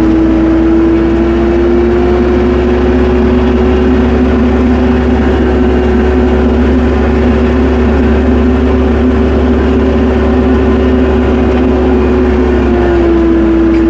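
Tractor engine running at a steady speed with a steady whine over it, which drops slightly in pitch near the end.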